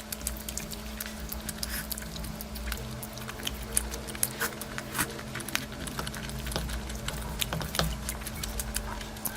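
Close-miked eating of curry: wet chewing, lip-smacking and squishy clicks, coming irregularly, over a steady low hum.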